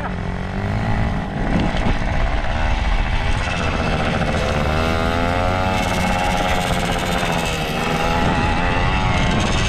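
Pit bike's small engine running as it is ridden, its pitch rising and falling with the throttle.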